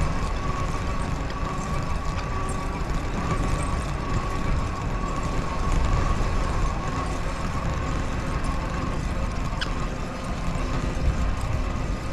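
Bicycle on the move, with low wind and road rumble and a thin, steady high-pitched whine, a noise the rider traces to the bottom bracket, which needs oiling.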